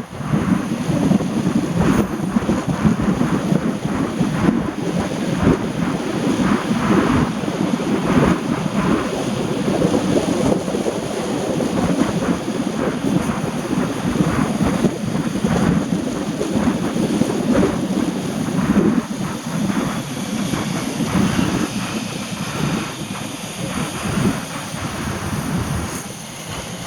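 Heavy rain with wind buffeting the microphone: a loud, steady rumbling noise that fluctuates and eases slightly near the end.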